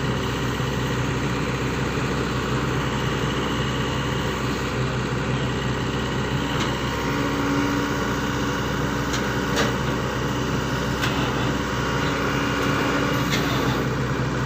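SANY excavator's diesel engine running steadily, with a higher steady tone joining twice for a couple of seconds and a few sharp clicks.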